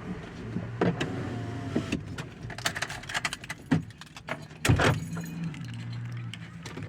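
Clicks, knocks and metal jangling around a car as someone gets out, with a louder thump about two-thirds of the way in and a low vehicle hum that comes and goes.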